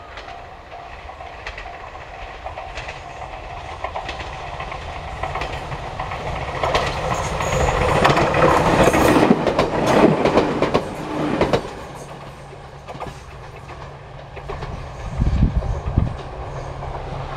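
A Joshin Electric Railway train passing over a level crossing, its wheels clattering over the rail joints. The noise builds to its loudest about 8 to 11 seconds in, then eases off to a steady low hum with a few more clacks near the end.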